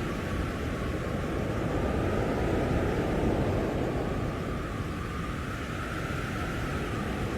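Strong blizzard wind blowing steadily, a dense low rushing noise that swells a little partway through.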